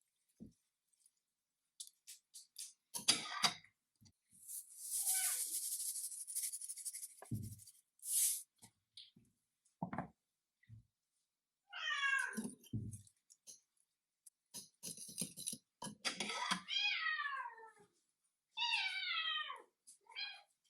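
A domestic cat meowing several times, each meow falling in pitch, in the second half, with scattered clicks and a short hissy noise earlier.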